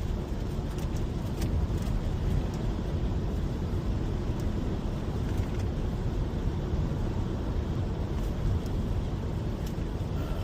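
Steady road noise of a car driving at highway speed, a low drone of tyres and engine heard from inside the cabin.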